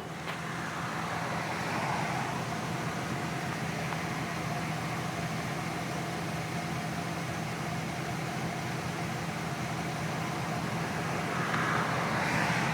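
Steady freeway traffic noise: a low engine hum under a hiss of vehicles, swelling briefly about two seconds in and again near the end.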